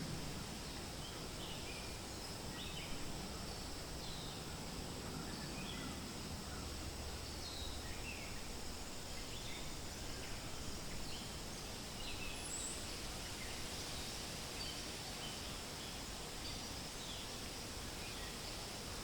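Forest ambience: a steady hiss of wind rustling through leaves, with small birds chirping in short, high notes scattered all through.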